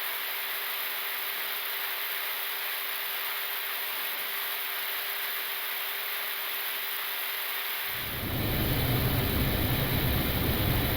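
Steady airflow hiss inside an Airbus A320neo flight deck with a faint steady hum. About eight seconds in the hum stops and a louder, deeper aircraft rumble takes over.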